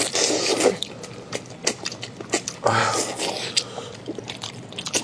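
Close-up eating sounds: biting and chewing food, with many short crisp clicks of the mouth and food, and two longer rushing sounds, one at the start and one about three seconds in.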